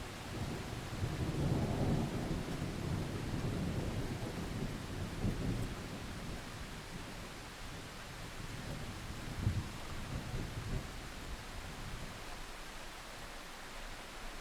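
Steady rain hiss with a long, low roll of thunder that builds about a second in, rumbles on with a couple of louder swells, and fades away near the end.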